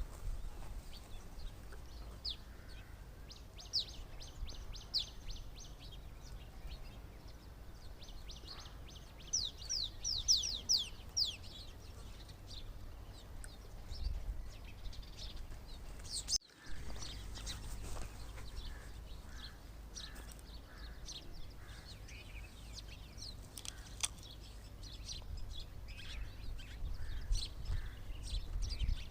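Small birds chirping, in quick runs of short, high chirps, busiest twice in the first half and scattered after, over a low steady rumble. The sound drops out for an instant a little past halfway.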